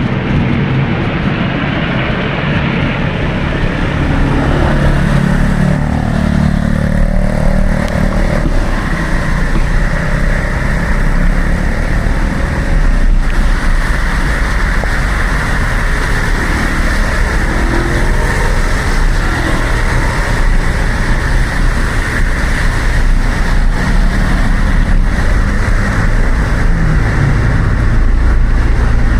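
Steady city motor traffic heard from a bicycle on wet roads: cars and motorcycles running and passing, over a continuous low rumble.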